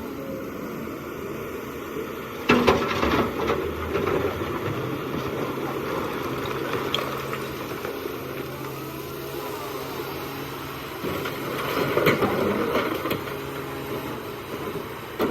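Excavator diesel engine running steadily, with two loud bouts of crunching and scraping, about two and a half seconds in and again around twelve seconds in.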